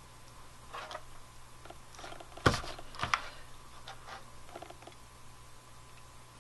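Hands working with ribbon and a hot glue gun at a craft table: soft rustles and small clicks, with two sharp knocks about two and a half and three seconds in, over a faint steady low hum.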